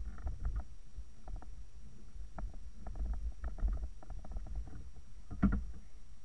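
Low rumbling wind buffeting on the microphone, with scattered light clicks and one louder knock near the end.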